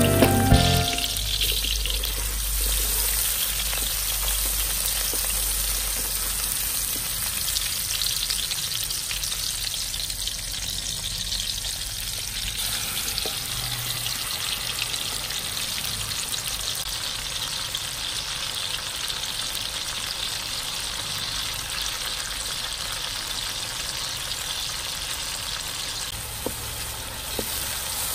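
Sliced shallots, garlic and ginger, and then chicken pieces in dark sauce, frying in hot oil in a wok with a steady sizzle, stirred with a wooden spatula.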